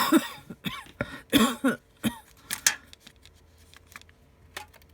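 A man coughs and clears his throat several times over the first two seconds, followed by a few sharp light clicks.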